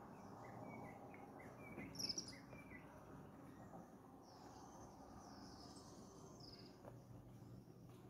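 Faint forest ambience with small birds calling: a run of short chirps in the first few seconds, a louder high call about two seconds in, and more high calls later.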